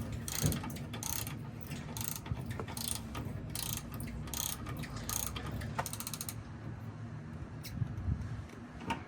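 Ratchet wrench clicking in repeated short runs as fasteners are run in on a sway bar install; the clicking stops about six seconds in, leaving a few single clicks.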